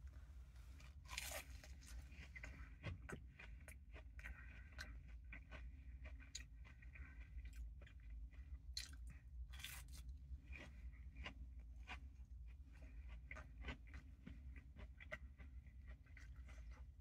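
A person biting into and chewing a breaded butterfly fried shrimp. A crunchy bite comes about a second in, then many small crunches and mouth clicks as he chews.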